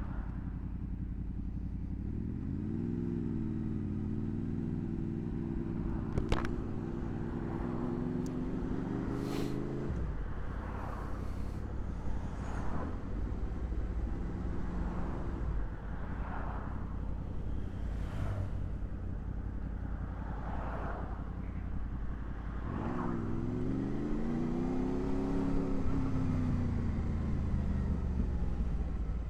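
Honda VFR800's V4 engine on the move, rising in revs about two seconds in and pulling steadily until the throttle comes off about ten seconds in, then pulling up again over twenty seconds in, over steady wind and road noise. A sharp click about six seconds in.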